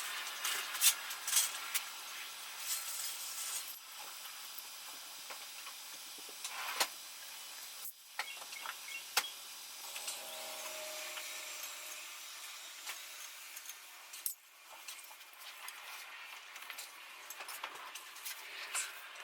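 Hand tools and metal parts being handled: scattered clinks, rattles and light knocks, with short stretches of rubbing.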